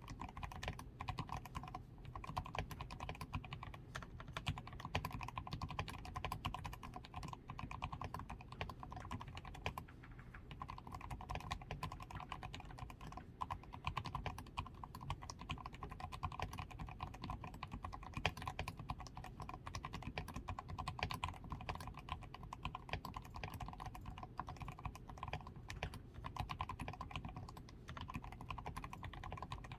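Continuous typing on a DAREU A87 Pro mechanical keyboard, fully lubed with Krytox 105, tape-modded and fitted with XDA keycaps: a dense, even run of soft keystroke clicks with brief pauses here and there.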